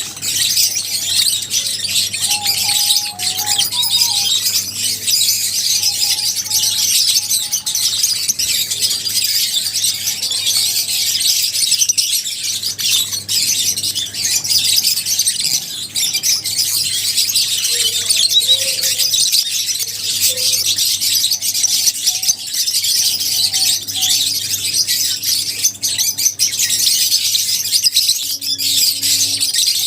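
A flock of lovebirds chattering and chirping all at once in a dense, unbroken high-pitched din, with a steady low hum beneath.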